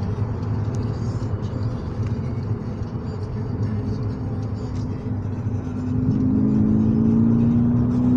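Steady road and engine noise heard from inside a moving car. About six seconds in, a tone rises slowly in pitch and grows louder, as the engine pulls the car faster.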